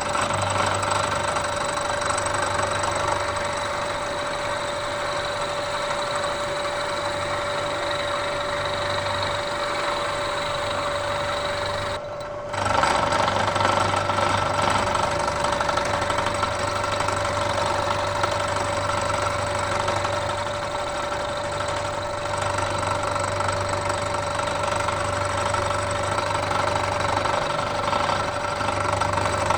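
Bridgeport milling machine running an end mill through a 100-thousandths-deep cut: a steady machining noise with a constant ringing tone. It dips briefly about twelve seconds in and is louder after that.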